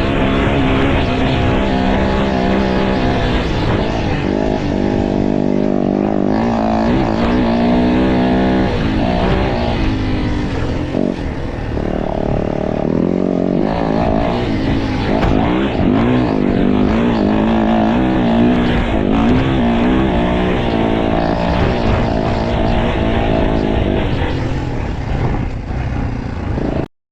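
Motocross bike engine revving up and down repeatedly as it races, with a rough noise of wind and track underneath; the sound cuts off abruptly near the end.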